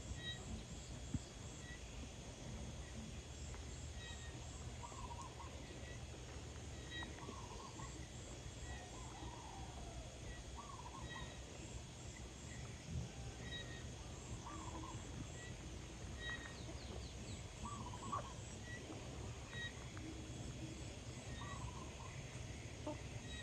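Chickens feeding, giving short soft clucks every couple of seconds over a steady low background rumble, with a faint high chirp repeating about once a second.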